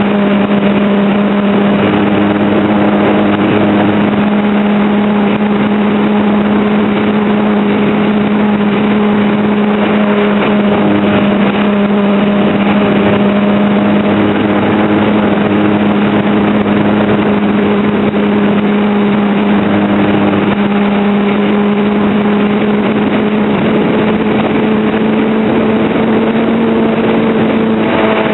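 Onboard audio of a Cessna TW-747 radio-controlled model plane in flight: the motor and propeller run with a steady drone over a loud hiss, the pitch edging up slightly near the end.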